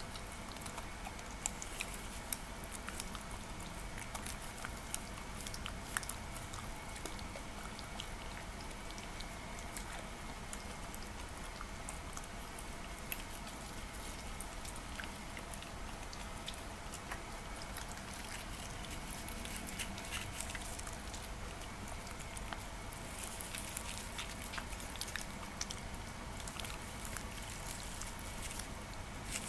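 A Shiba Inu eating soft food of chicken, beef and mashed pumpkin and sweet potato: a scatter of small wet clicks and smacks from its chewing and licking, with one sharper click about halfway through, over a faint steady hum.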